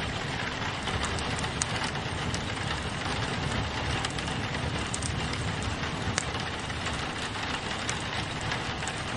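Steady rain on a window mixed with a crackling wood fire: an even rushing hiss with scattered sharp pops, a few of them louder.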